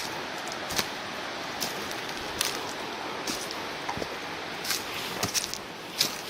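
Footsteps of one person walking a forest trail, a crunch at each step about every three-quarters of a second, over a steady background hiss.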